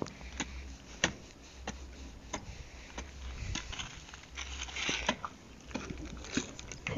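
Firewood being handled and stacked for a bonfire: scattered light knocks and snaps of sticks, irregularly spaced.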